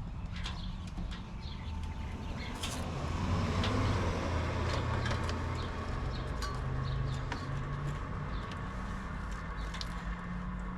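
A steady low machine hum that swells slightly a few seconds in, with scattered light clicks and ticks over it.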